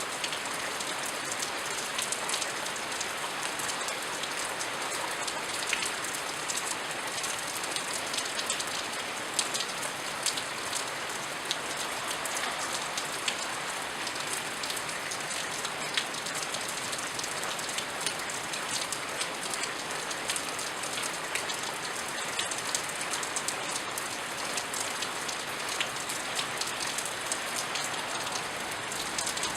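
Steady rainfall, the even hiss of a shower with many sharp individual drops pattering close by.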